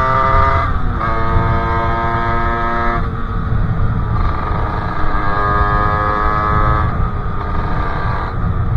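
50cc two-stroke Sherco engine with a KRM expansion exhaust running under way, its pitch climbing and then dropping sharply about a second in, holding, and rising strongly again from about four seconds. A heavy low rumble runs underneath.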